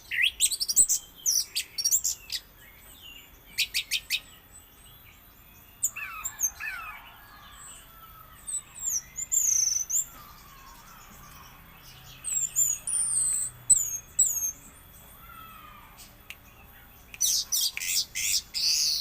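Orange-headed thrush singing: bursts of sharp, high chipping notes and quick slurred whistles, broken by pauses of a second or two, densest near the start and again near the end.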